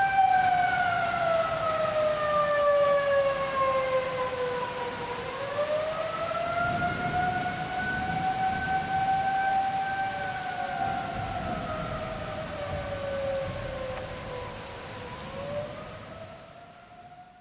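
Outdoor warning siren wailing in a slow rise and fall of pitch, each sweep taking about five seconds, over steady rain. It fades away near the end.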